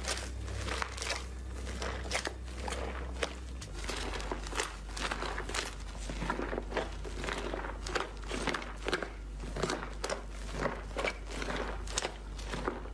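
Slime being squeezed and pressed by hand, making a run of irregular small clicks and pops, a few each second.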